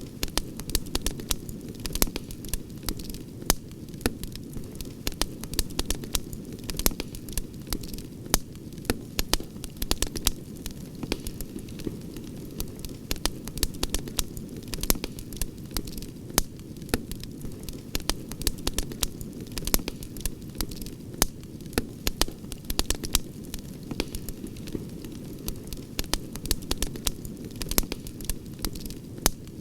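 Campfire crackling: frequent, irregular sharp snaps and pops over a steady low rush of burning wood.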